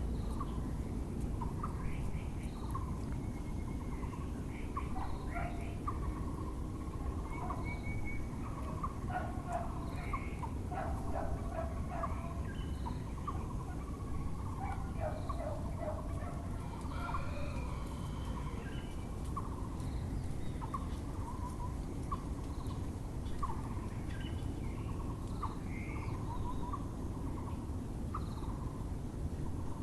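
A chorus of birds calling, with a Muller's barbet repeating its call every second or two throughout and bursts of chattering calls from other birds in the middle, over a steady low rumble of background noise.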